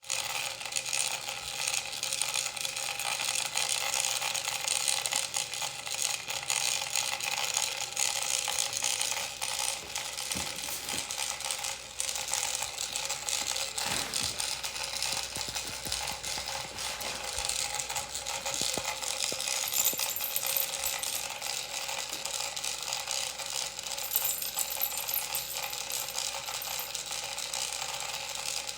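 Continuous rapid mechanical clicking and rattling, like a ratchet, starting suddenly and running on without a break.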